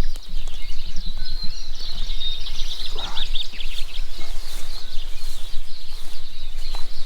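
Birds singing, a dense run of rapid chirps and trills, busiest in the middle seconds, over a steady low rumble.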